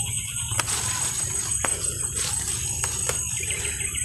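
Steady high-pitched insect chirring in the grass over a low steady rumble, with a few sharp snaps and rustles as plant stems are picked by hand.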